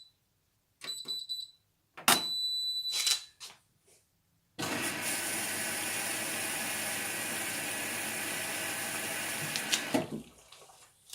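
Indesit washing machine's control panel beeping as buttons are pressed, then about four seconds in water starts rushing into the machine with a steady loud hiss for about five seconds before cutting off abruptly: the water inlet valve filling the drum at the start of the wash.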